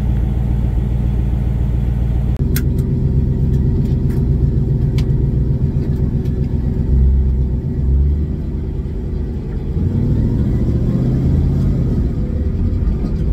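The 1500-horsepower Mustang's engine, heard from inside the cabin, running at low revs around 880 rpm. It dips briefly about two-thirds of the way through, then rises again, with a couple of sharp clicks early on.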